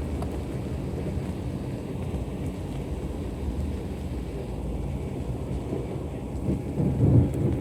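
Embraer E190 jet's engines and rushing air heard inside the passenger cabin: a steady low rumble, swelling briefly near the end.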